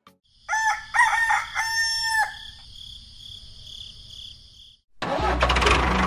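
A rooster crows once, a call of several rising and falling parts, over a steady high chirring background. About five seconds in, an engine starts abruptly and keeps running with a fast knock.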